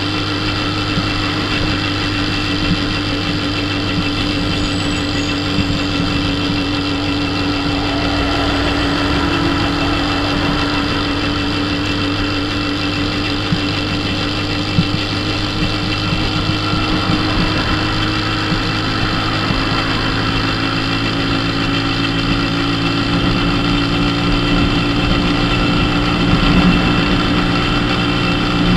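The small 50cc engine of a Dafra Super 50 running steadily at cruising speed on the highway, over wind and road noise. Its pitch and loudness edge up slightly in the last several seconds.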